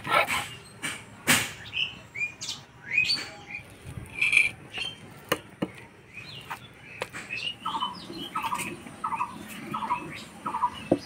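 Birds chirping, with a short call repeated about twice a second in the second half, over scattered sharp clicks and knocks.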